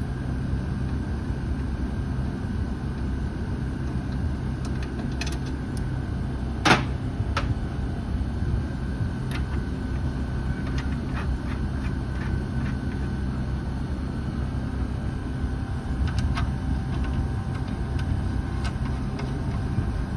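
Air-conditioner outdoor unit running steadily, freshly charged with R410A refrigerant: a low machine hum with a faint high whine. There is a sharp click about seven seconds in and a few lighter ticks.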